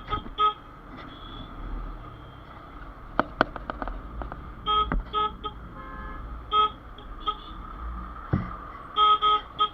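Vehicle horns giving short toots in quick pairs and triples, several times, over a steady low road rumble in heavy highway traffic. A burst of sharp clicks comes about three seconds in and a low thud just after eight seconds.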